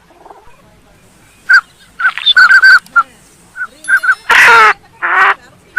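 Lesser whistling ducks calling: short, clear whistles repeated in quick runs, followed by two louder, harsher calls about four and five seconds in.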